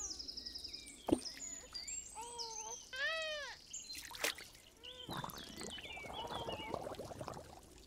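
Frogs croaking: a handful of short calls that rise and fall in pitch, with a couple of sharp water plops, then a dense rattling chorus from about five seconds in.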